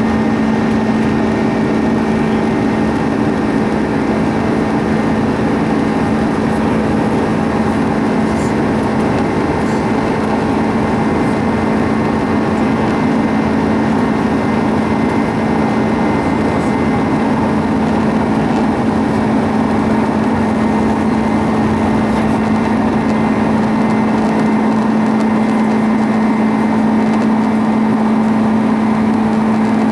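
Airbus A310 jet engines heard inside the passenger cabin: a loud, steady drone with a constant low hum and fainter steady tones above it, no change in pitch or level.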